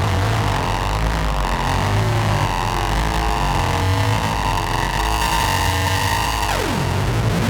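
Novation Circuit groovebox playing a noisy experimental drone patch from the Howl preset pack: a dense, engine-like drone over a pulsing low throb, with gliding tones and one steep downward pitch sweep near the end.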